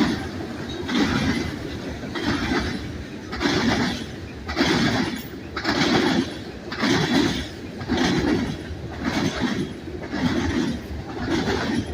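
Freight train cars rolling past, their wheels hammering over a rail switch frog in a steady rhythm of heavy clatters, about one a second. The repeated banging is noisy.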